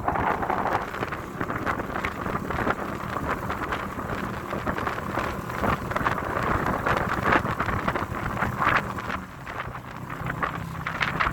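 Motorboat under way: a steady engine drone with wind buffeting the microphone, easing briefly about nine and a half seconds in.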